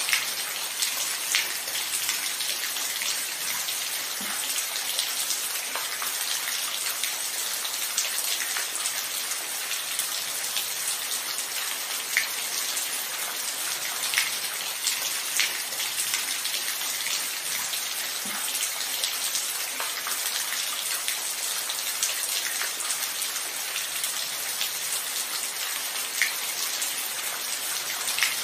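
Steady rain falling: an even hiss with scattered louder single drops every second or so.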